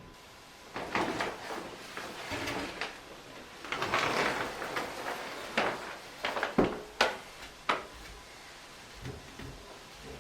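Hand work on building materials: scraping and rustling for a few seconds, then about five sharp knocks and clicks, the loudest a little over halfway through.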